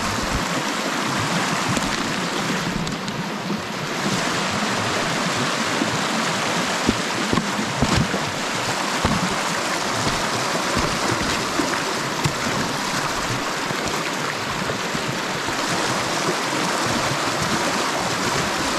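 Small mountain stream rushing steadily over rocks, with a few brief knocks partway through.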